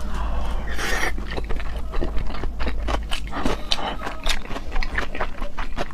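Close-up eating sounds: a person chewing seafood, with many small mouth clicks and smacks and a brief rushing breath about a second in.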